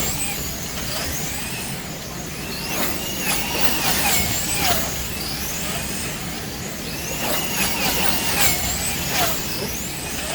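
Electric slot car motors whining, the pitch sweeping up and falling back again and again as the winged cars speed up and slow down around the track, with clicks and rattles of the cars in the slots.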